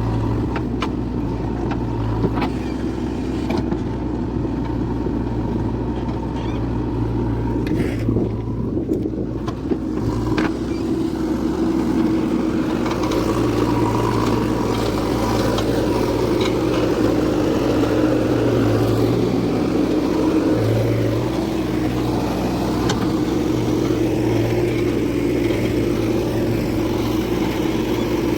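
Eicher tractor's diesel engine running steadily, a little louder from about ten seconds in.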